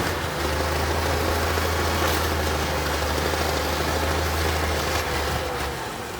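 Heavy diesel engine of earthmoving equipment running steadily with a low drone, over a haze of mechanical noise; the drone drops away near the end.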